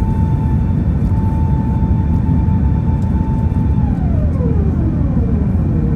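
Airbus A380 cabin noise in flight: a steady, loud rumble of engines and airflow. A steady whine above it drops in pitch about four seconds in.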